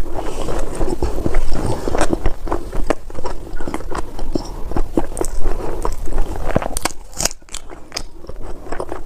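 Close-up ASMR eating sounds of someone biting and chewing spicy chicken feet, with many quick, irregular sharp crunching clicks and wet mouth sounds. They ease off briefly about seven seconds in.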